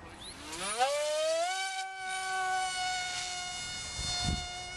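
Electric motor and propeller of a Fun Jet delta-wing RC plane spooling up to a high whine over about a second and a half, then holding a steady pitch at full throttle.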